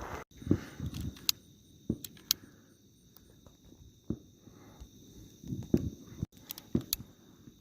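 Night insects, crickets, chirping steadily as a high continuous drone, with irregular sharp pops and low thuds scattered through, about seven of them.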